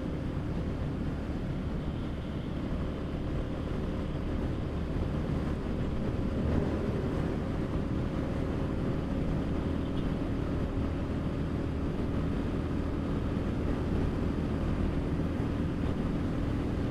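Royal Enfield Classic 350's single-cylinder engine held at full throttle in fifth gear at over 100 km/h, a steady engine note under rushing wind on the microphone.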